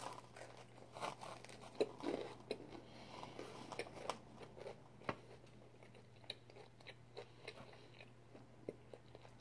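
A person biting into food and chewing it, with faint, irregular crunches and small mouth clicks.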